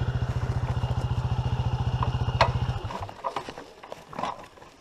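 Dirt bike engine idling with an even, rapid beat, then cut off suddenly a little past halfway, with a sharp click just before it stops. Faint scattered small knocks follow.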